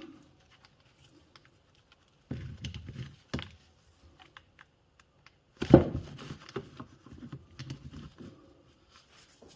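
Small clicks and knocks of hands working on an e-bike mid-drive motor's parts and connectors during reassembly, in two busier stretches, with the loudest knock a little past the middle.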